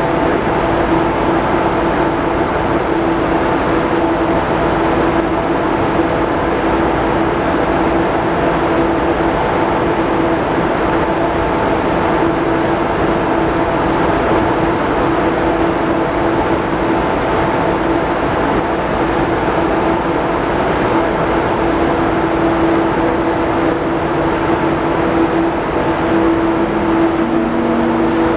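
ICE 1 high-speed train standing at a platform, its onboard equipment humming steadily with several held tones. Near the end a new lower tone joins as the train starts to move off.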